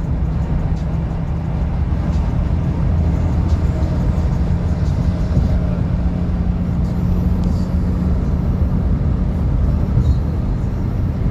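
Truck driving at a steady speed: a continuous low engine and road drone with no pauses or sudden changes.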